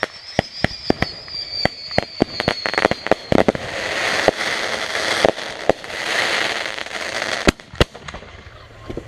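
Backyard fireworks going off: a quick run of sharp bangs, with a high whistle falling slowly in pitch over the first three seconds. About three seconds in comes a hissing crackle lasting some four seconds, then two loud bangs.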